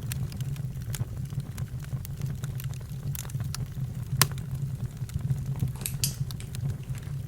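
Campfire crackling: irregular sharp pops and snaps, one louder about four seconds in, over a steady low hum.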